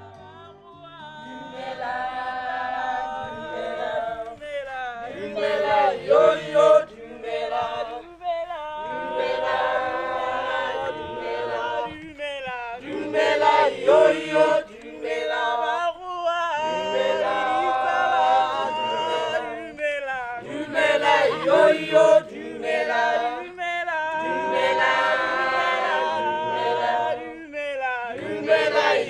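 A group of voices singing together in harmony without instruments, in phrases a few seconds long with short breaths between them.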